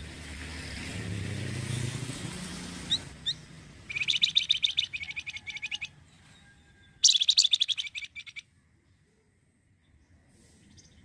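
A songbird singing two bursts of fast, rapidly repeated high chirping notes, about four and seven seconds in. Before them, a rushing noise with a low rumble fills the first three seconds.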